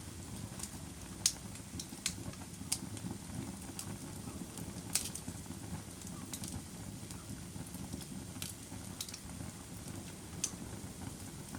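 Wood fire burning in a fireplace: a steady low rumble of flames with irregular sharp crackles and pops, the loudest about a second in.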